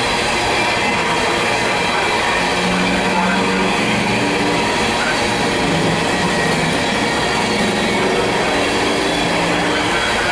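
Freight train of covered hopper cars rolling past, a loud, steady noise of steel wheels running on the rails.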